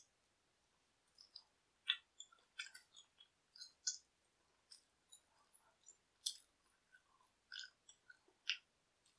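Close-miked chewing of pizza: irregular crisp crunches and small mouth clicks, a few each second, with quiet gaps between.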